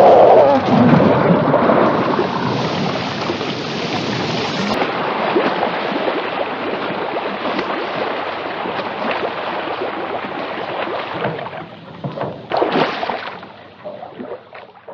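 Loud rushing and splashing of water, like a car plowing into water, dying away near the end.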